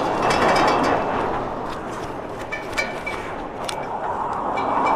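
Bicycle on the move: a steady rush of wind and tyre noise that swells and fades, with scattered short clicks and several brief high squeaks, the odd noise the bike is making.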